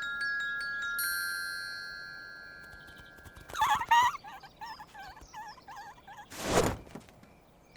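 A bright chime strikes and rings out, fading over about two and a half seconds. It is followed by a cartoon character's wavering, warbling vocal chatter and a short whoosh near the end.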